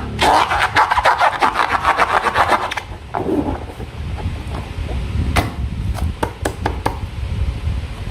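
Hands working slime, with a rapid crackling and scraping for about three seconds, then a few scattered clicks.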